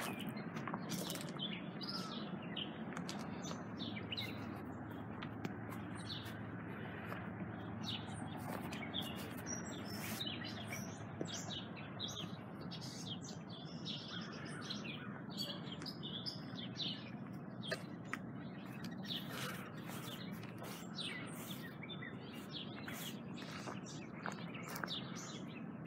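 Outdoor birds chirping and calling again and again, many short chirps throughout, over a steady low hum.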